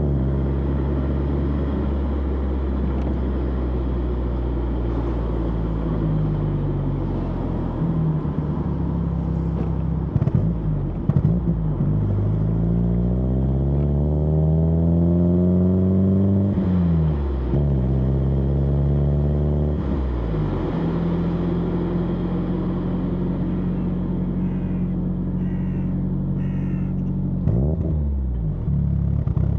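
Exhaust of a 1991 BMW E30 316i's four-cylinder engine, heard close at the rear, running at steady revs. About halfway through it accelerates, the pitch rising for a few seconds before falling back sharply. It then settles to a steady drone again, with a brief drop in revs near the end.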